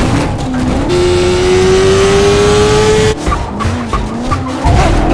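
Car engine revving hard at speed, its pitch climbing slowly for about two seconds in the middle. Tyres squeal and skid around it.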